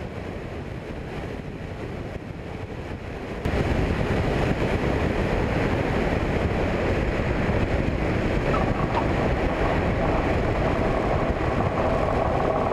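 Steady engine and propeller noise from a Cessna 172 heard in the cockpit, an even rushing sound with no distinct beat, which gets louder about three and a half seconds in.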